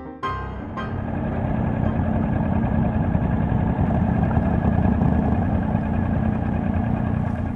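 Motorcycle engine running with a steady low rumble that builds in about the first second and holds.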